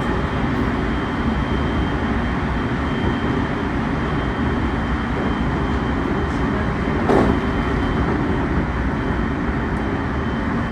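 Train running by with a steady rolling rumble and a faint steady high whine, with one brief louder clank about seven seconds in.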